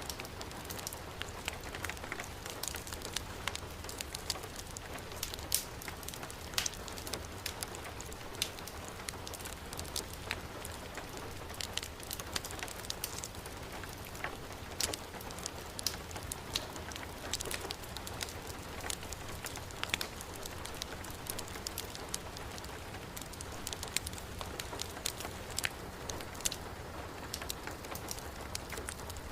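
Steady heavy rainfall, with a wood fire's frequent sharp crackles and pops scattered through it.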